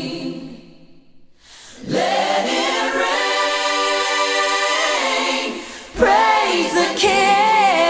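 Choir singing a cappella. A phrase fades out near the start, and after a short pause a long chord is held for about three seconds. Singing starts again about six seconds in.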